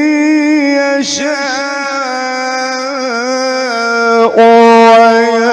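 A man's voice chanting the Quran in the melodic mujawwad style, holding long ornamented notes that waver and step in pitch. Just after four seconds in it breaks and comes back louder on a sustained note (the word "yasha'").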